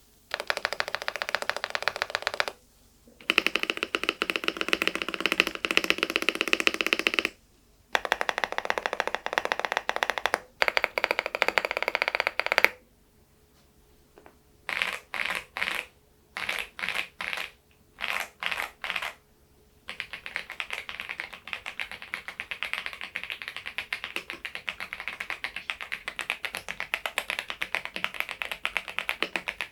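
Typing on an AULA F99MAX mechanical keyboard with Leobog Reaper switches: rapid keystroke clicking in four long runs with short pauses, then six short bursts, then a steady run of typing from about twenty seconds in.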